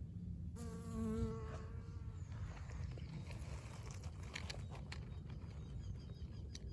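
Honey bee buzzing in flight, a steady pitched hum of its wingbeats from about half a second to two seconds in, over a low rumble. Faint high ticks and chirps follow later.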